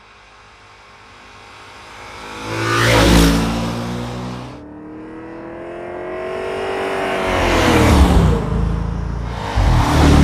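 2013 Audi RS5's 4.2-litre V8 accelerating past, swelling to a loud peak about three seconds in. It then revs up again, rising in pitch to a second loud pass about eight seconds in, with a third loud swell near the end.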